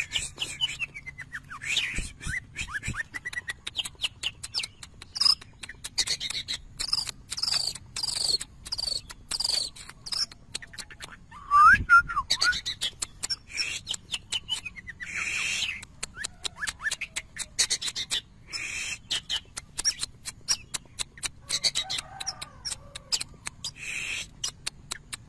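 Long-tailed shrike (cendet) singing in a fast, unbroken string of short sharp notes, clicks and quick chirps, its song full of imitated calls of other birds. The loudest burst comes about halfway through.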